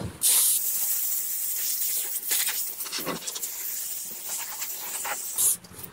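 Sander working a fiberglass boat hull, a steady high hiss of abrasive on the surface that breaks off just before the end. The sandpaper is worn and almost due to be changed.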